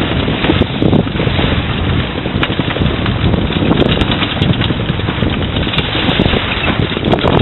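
Wind buffeting the microphone aboard a small sailboat under way, with the rush of water along the hull and scattered clicks and knocks.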